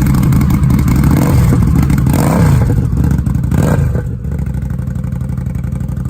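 2019 Indian Scout Bobber's V-twin running through a Rinehart slip-on exhaust. It is blipped up in revs a few times, then settles back to a steady idle about four seconds in.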